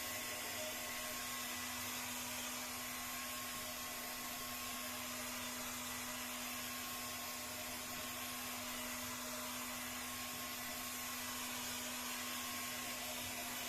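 Hot-air heat gun blowing steadily with a constant hum, heating the glued PVC of a boat's transom to soften it for peeling off.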